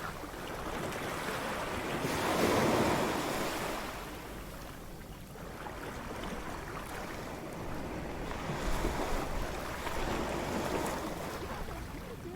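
Beach ambience: surf washing ashore in slow swells, the biggest wave breaking about two seconds in and smaller ones later, with a breeze.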